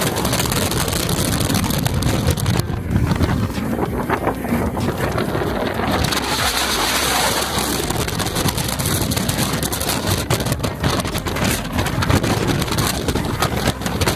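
Steady rushing roar of a steel roller coaster train in motion, wind buffeting the rider's camera microphone, with irregular rattles of the cars on the track.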